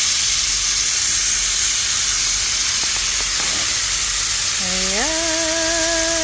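Steak searing in a hot pan: a steady, loud sizzle. About four and a half seconds in, a person's voice slides up and holds a hummed note with a wavering pitch for about two seconds.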